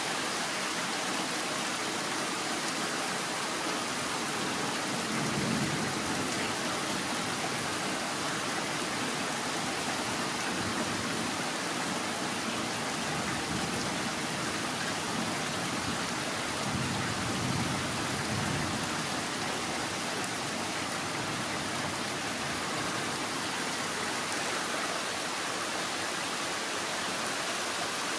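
Steady rain falling during a weak thunderstorm, an even hiss throughout, with two brief low swells about 5 and 17 seconds in.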